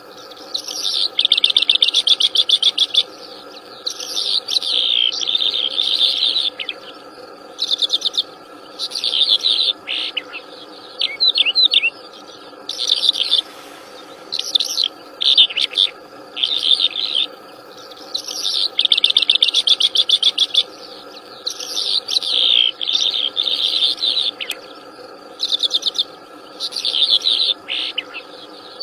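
Wild songbird singing in repeated phrases of rapid, high chattering trills, each lasting a second or two with short pauses between. A steady hum runs underneath.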